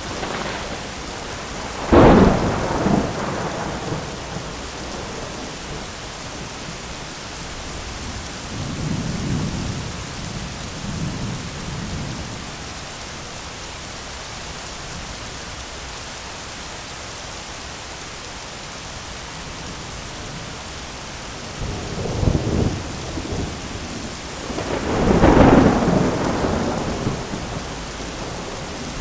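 Steady heavy rain with thunder: a sharp crack about two seconds in, softer low rumbles in the middle, and a second loud rolling peal near the end.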